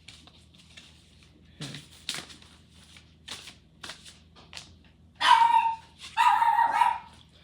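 A dog barks twice, two drawn-out barks about a second apart, a few seconds in. Before them come a few soft rustles and taps of cards being handled.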